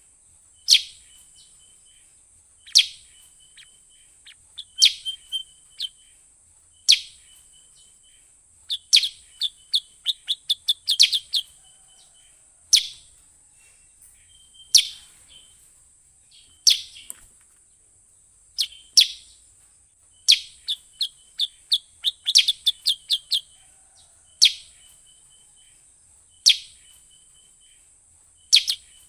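Kutilang sutra lure call: loud, sharp, falling chirps about every two seconds, with a softer rattling trill between them and two runs of quick chirps, one about nine seconds in and one about twenty seconds in. A steady high hiss runs underneath.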